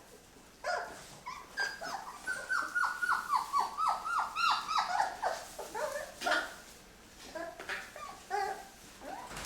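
A dog whining and yelping: a quick run of short, high cries, each dropping in pitch, about three a second, with scattered single whines before and after.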